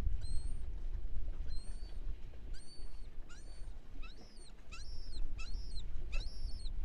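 Birds calling: a series of short, high, whistled calls that sweep upward and then hold, about nine of them, coming closer together toward the end. Under them runs a low rumble of wind on the microphone.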